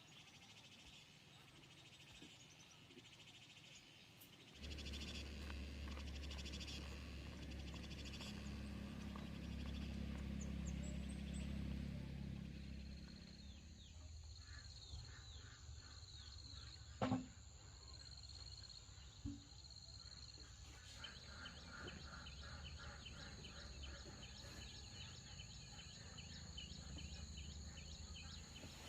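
Young poultry peeping: many short, high, falling chirps that start about halfway through and repeat quickly near the end, over a low rumble. A single sharp knock about two-thirds of the way in is the loudest sound.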